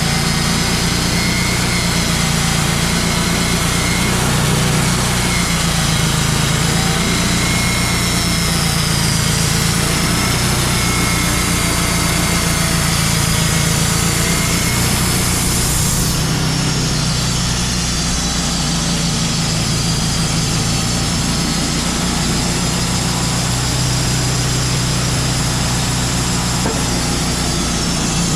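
Portable band sawmill's engine running steadily under power, with a shift in its tone about two-thirds of the way through.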